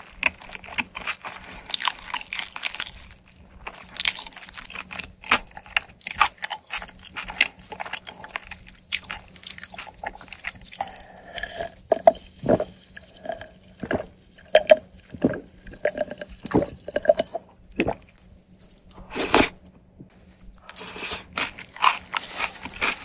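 Close-up chewing of pizza with crunching crust and wet mouth sounds. About halfway through come several gulps of a drink swallowed from a glass, then the chewing starts again.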